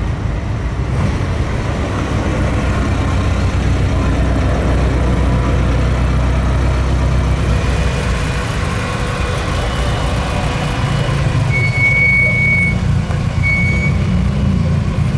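Car engine running at low revs with a steady rumble, and a few short high-pitched tones near the end.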